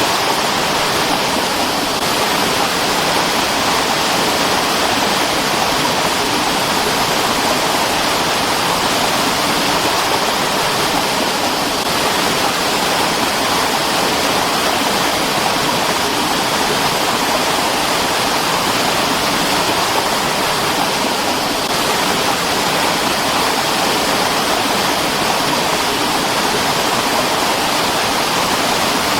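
Mountain stream rushing over rocks, a steady, even splashing and gurgling of water.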